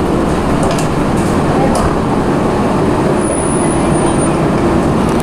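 A train running with a steady rumble and a constant hum, voices mixed in.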